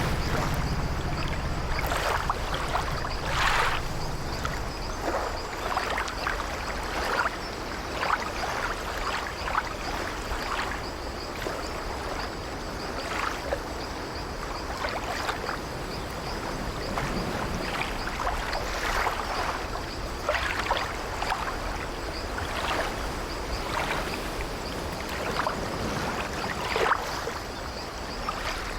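Water sloshing and lapping against a wooden ship's hull in irregular small splashes, a few each second, with the creaking of old ship timbers.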